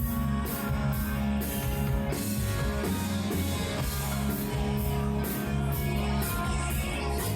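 Live hard rock band playing: electric guitar over bass and a steady drum beat.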